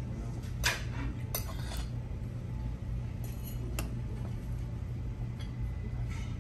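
Eating utensils clinking against plates and bowls in a handful of light, separate clinks, over a steady low hum.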